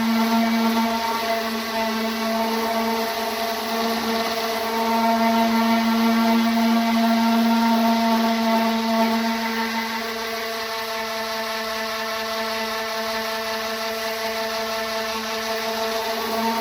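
Electric orbital sander running steadily while sanding filler and fiberglass on a car body panel, a constant motor hum with a hiss of abrasive on the surface. It runs a little quieter from about ten seconds in.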